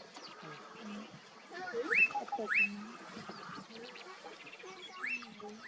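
Wild birds calling: short, sharply rising whistled notes, two together about two seconds in and one more near the end, over fainter chirps of other birds.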